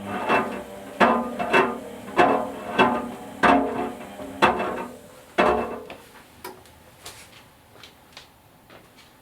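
A short tune of about nine struck, ringing notes, roughly two a second, over a steady low hum, dying away after about five and a half seconds. A few faint clicks follow.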